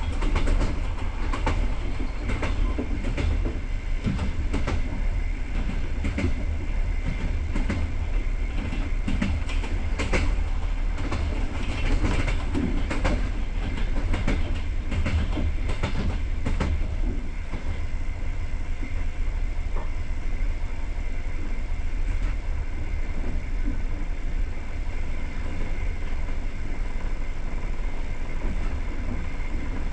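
Passenger train carriage running along the track: a steady low rumble of wheels on rails, with frequent sharp clicks over rail joints during the first half that thin out to a smoother run after about seventeen seconds.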